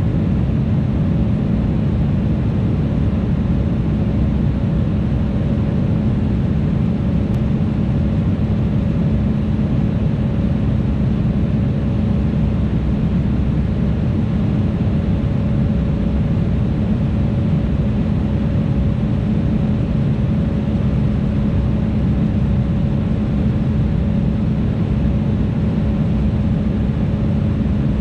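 Steady cabin noise of an Embraer E175 in flight: the drone of its two GE CF34 turbofans and the rush of air past the fuselage, with a constant low hum and a fainter higher tone.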